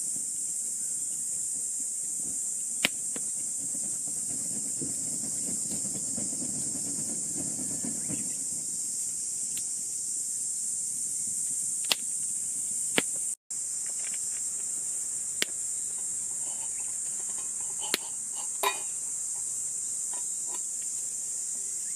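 Steady high-pitched chorus of crickets, with a few sharp, isolated clicks or snaps scattered through it. The sound drops out for an instant about halfway.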